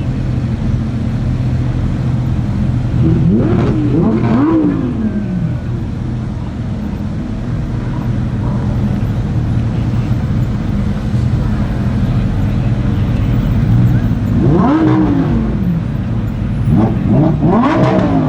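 Supercar engines running at idle with quick throttle blips, each a sharp rise and fall in pitch: a pair about four seconds in and three more near the end.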